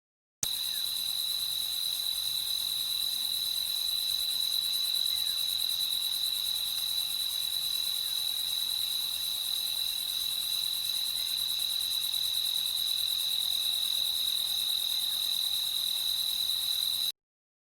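Night chorus of crickets: a steady, unbroken high-pitched trill. It starts suddenly just after the start and cuts off abruptly near the end.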